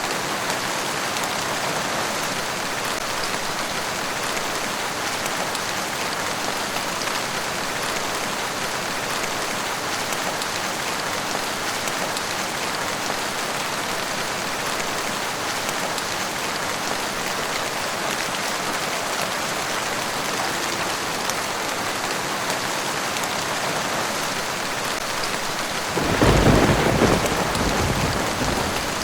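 Steady rain falling. About three seconds before the end a roll of thunder breaks in, a deep rumble louder than the rain.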